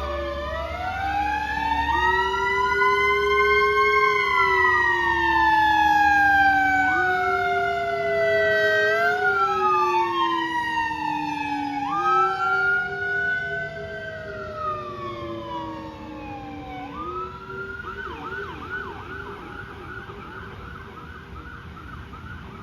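Emergency sirens of a responding fire engine and battalion chief's vehicle, two wailing tones overlapping as each slowly rises and falls. About two thirds of the way through they switch to a rapid yelp, and the sound grows fainter toward the end.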